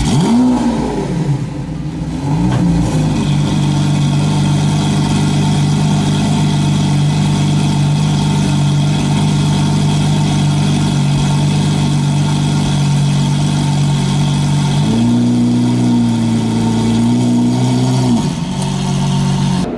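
Lamborghini Aventador LP700-4's V12 engine revved in two quick blips, then held at a steady raised rev for about twelve seconds. Near the end it steps up to a higher held rev for about three seconds, then drops back.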